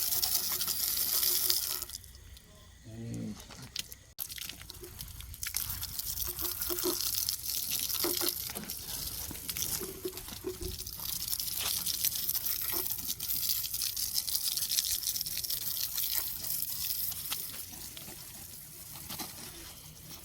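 High-pressure water spray hissing against a car wheel, rinsing off iron remover. It stops briefly about two seconds in, then resumes.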